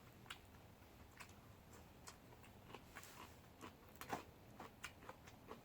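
Near silence with faint, irregular small clicks and ticks, one slightly louder about four seconds in.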